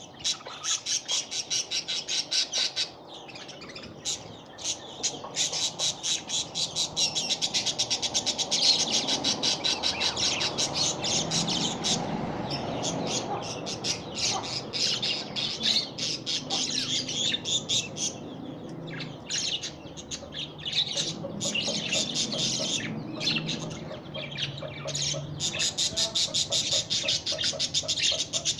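Budgerigar chicks giving rapid, rhythmic, high-pitched begging calls, many a second, as they are fed by a parent. The calls ease off briefly twice and then pick up again.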